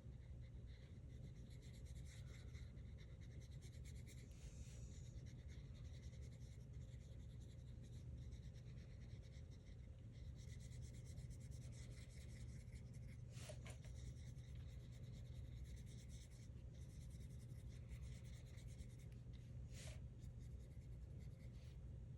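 Faint rubbing and scratching of a small wet paintbrush stroking across drawing paper, with two brief taps, one about halfway through and one near the end.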